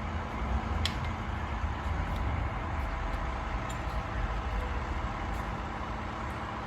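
Heavy diesel engine idling, a steady low rumble with a faint hum, and a single sharp click about a second in.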